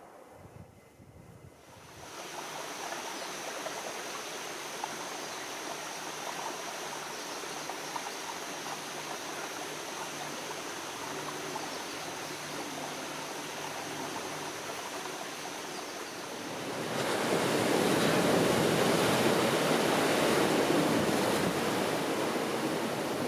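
Steady sound of moving water with a faint high steady tone above it. About seventeen seconds in it gives way to louder ocean surf.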